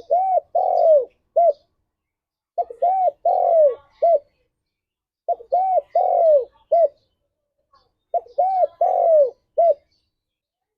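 Spotted dove (tekukur) cooing: four repeated phrases, each of about four arched coo notes, with the longest third note falling at its end, spaced a couple of seconds apart.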